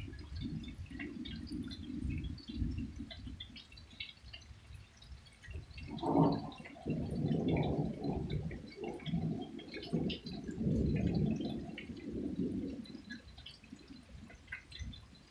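Thunder rumbling low and almost without a break, swelling louder about six seconds in and fading near the end, with faint scattered ticks over it.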